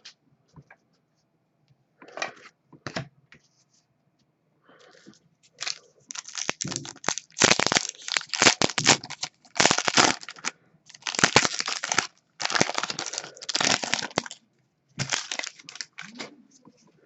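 Trading cards and a foil pack wrapper being handled: crinkling, tearing and sliding in dense bursts, starting about six seconds in and running for about ten seconds.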